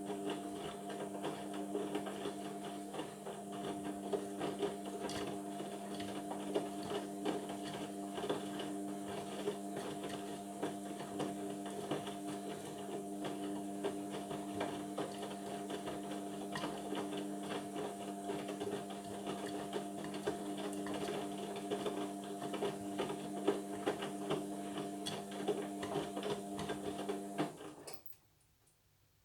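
Indesit washing machine's drum motor running with a steady whine, over the patter and slosh of wet laundry tumbling in the drum during a Cotton 60 wash. It cuts off sharply near the end, the pause between drum turns.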